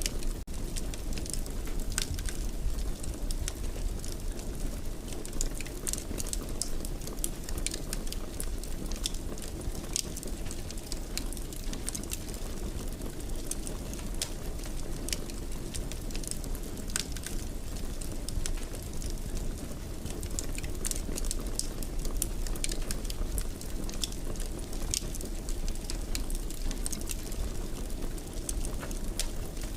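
A wood fire crackling in a fireplace, with frequent irregular small pops over a steady low rumble of the flames.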